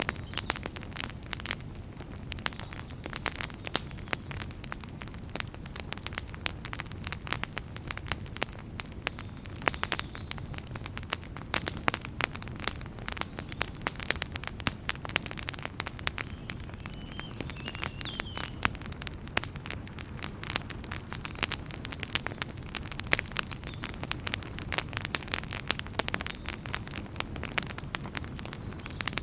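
Wood fire in a fireplace burning steadily, with dense, irregular crackles and pops over a low steady rumble of the flames.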